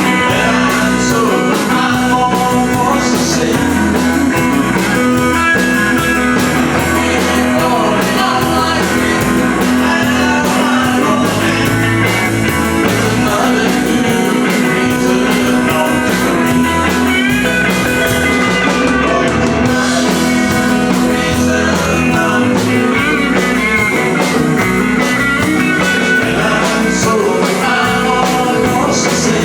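Live country band playing, with electric guitar to the fore over a steady beat.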